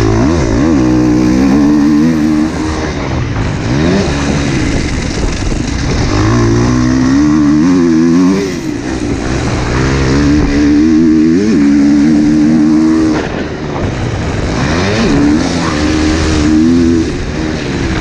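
Husqvarna motocross dirt bike engine revving hard and backing off on a track, its pitch climbing and dropping again about four times as the rider accelerates and shifts, over heavy wind rush.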